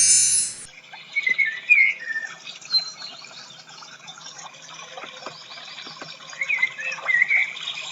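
Bird chirps and twitters over a faint background hiss. A short, bright sound effect made of many stacked glides is heard at the very start.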